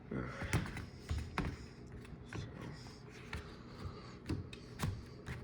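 A new furnace filter being handled and pushed into its slot: a series of light knocks and clicks, about one a second.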